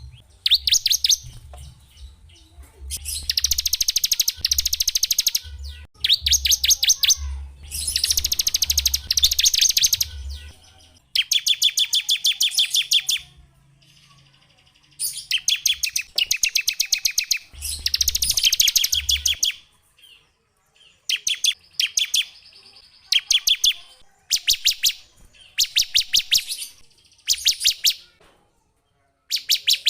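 Small songbird song: loud bursts of very rapid, high-pitched trills, each lasting one to two seconds, repeated with short pauses between them.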